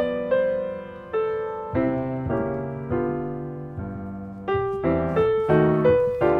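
Background piano music: chords and single notes played at a gentle, even pace, each struck note fading before the next.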